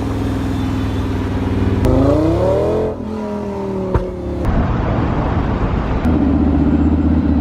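Supercar engine running. It revs up with a rising pitch about two seconds in, then drops back. The sound changes abruptly a few times and ends on a steady engine drone.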